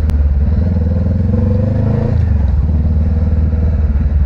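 Motorcycle engine running. Its pitch rises for about a second, then drops just after two seconds in as it revs or shifts. A single sharp click comes right at the start.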